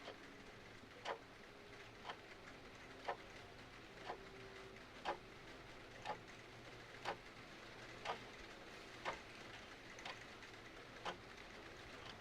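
Clock ticking evenly, about once a second, over a faint steady hiss of rain and a crackling fireplace.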